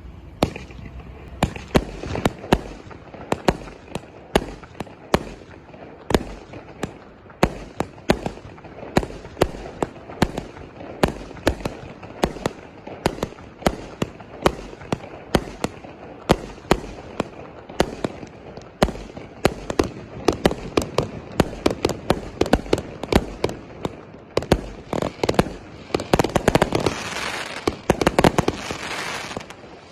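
A 100-shot, 0.8-inch Blue Bird firework cake firing its tubes one after another, sharp bangs at about two to three a second. Near the end a denser stretch of shots runs together with crackle.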